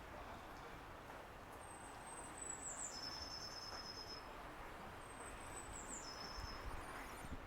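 A small songbird sings two phrases a few seconds apart, each a thin high note that drops into a lower trill, over faint steady background noise.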